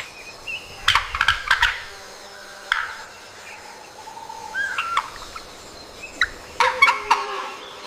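Bird calls: two bursts of rapid, sharp clucking notes, about a second in and again near the end, with a short pitched call between them.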